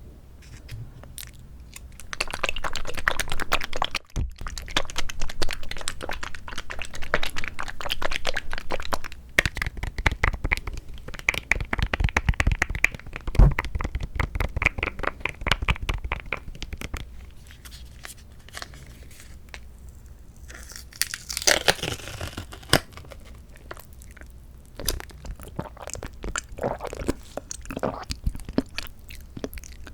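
Close-miked eating of mandarin orange segments from a Sunkist fruit cup: chewing made of dense runs of quick clicks, loud for long stretches and quieter in between, with a sharper, brighter burst about two-thirds of the way through.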